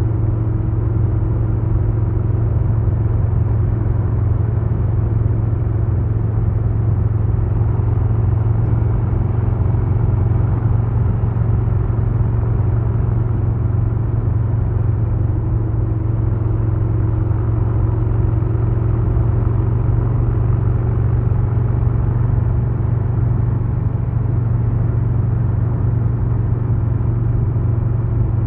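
2022 Harley-Davidson Low Rider S's Milwaukee-Eight 117 V-twin running under way at a steady throttle, its low exhaust note holding level in pitch.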